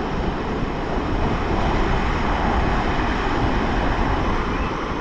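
Ocean surf washing on a sandy beach with wind buffeting the microphone, a steady low rumble and hiss.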